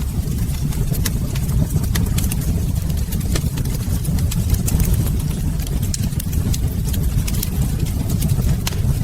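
Fireplace fire crackling with irregular sharp pops over a steady low rumble.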